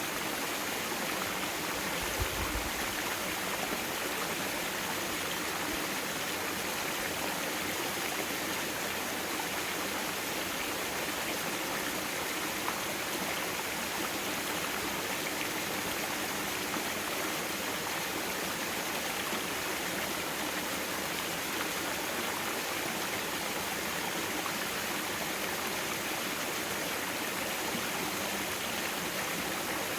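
Mountain-valley stream flowing over rocks, a steady, even rushing of water. About two seconds in there is a brief low thump.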